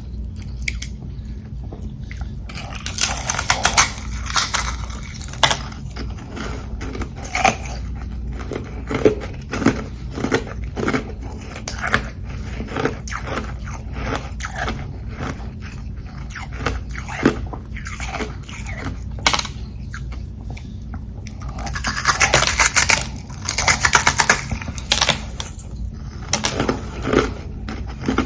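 Close-up chewing of carbonated ice, with crisp crunches and crackles. It thickens into dense runs of crunching twice, a few seconds in and again about three-quarters of the way through.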